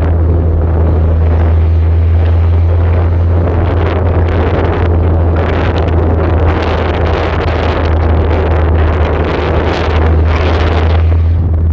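Ford Ranger engine running through open headers and downpipe with no muffler, a steady deep drone, with wind buffeting the microphone.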